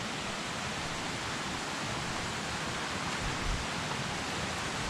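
Steady rush of creek water at a ford, with a waterfall close by. There is a soft low bump about three and a half seconds in.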